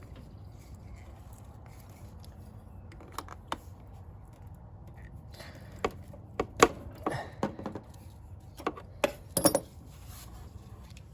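Hands working a fuel hose and the plastic fuel-filter clip on a mower engine: a run of sharp clicks and knocks over a few seconds in the second half, over a faint steady low hum.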